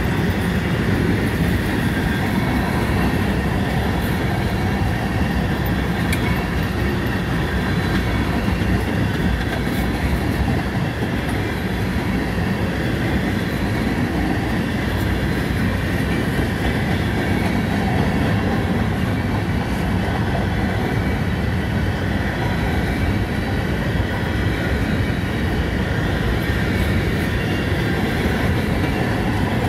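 A manifest freight train's covered hopper and tank cars rolling past on the rails: a steady, loud rumble of steel wheels on track, with a few faint steady high tones above it.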